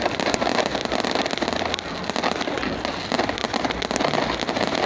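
Fireworks going off as a continuous crackle of many rapid small pops.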